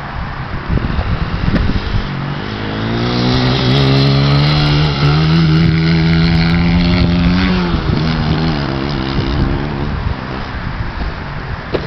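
Small 100 cc dirt bike engine running hard at high revs. Its note rises in about two and a half seconds in, holds loud and steady for about four seconds, then drops in pitch and fades, over a rough rumbling noise.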